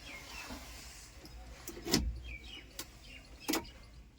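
Small birds chirping, with a few sharp knocks or clicks, the loudest about two and three and a half seconds in.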